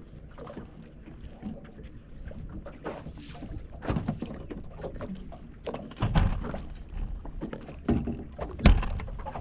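Wind rumbling on the microphone in a small fishing boat, with irregular knocks and thumps, the loudest a sharp one near the end.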